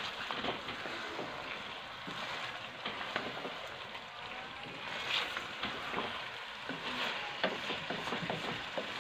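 Chicken pieces and spices sizzling in oil in an aluminium pot while a wooden spatula stirs them, with scattered scrapes and knocks of the spatula against the pot.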